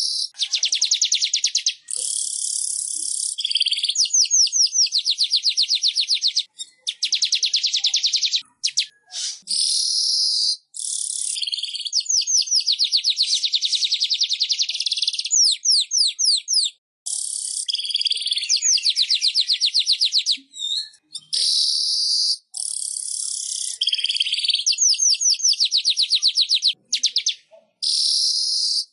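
Manyar (weaver bird) song: bursts of fast, buzzy, chattering trills, each one to three seconds long with short breaks between, repeated without pause.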